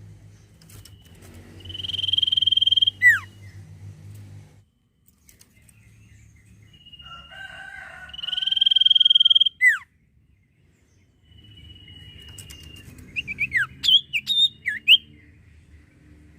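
Common iora (sirtu, cipoh) singing: three loud phrases, each a long steady high whistle ending in a quick down-slurred note. The last phrase breaks into a run of quick falling notes. A low steady hum runs underneath for part of the time.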